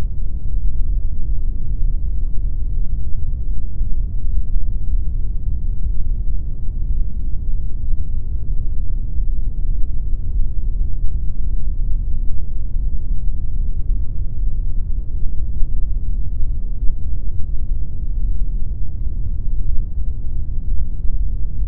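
Steady pink noise: an even, unchanging hiss weighted toward the low end, heard as a deep rumbling rush with little top.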